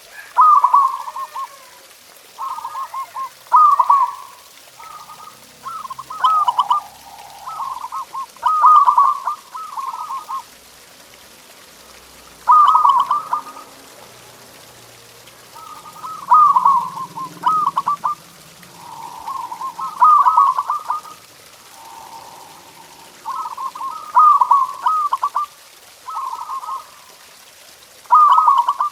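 Zebra doves (perkutut) cooing: short bursts of rapid, stuttering coos, repeated every second or two with brief pauses between.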